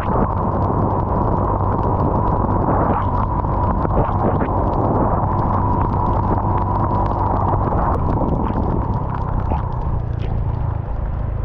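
Motor scooter on the move: its small engine and a steady whine run under heavy wind rumble on the microphone, with scattered clicks throughout.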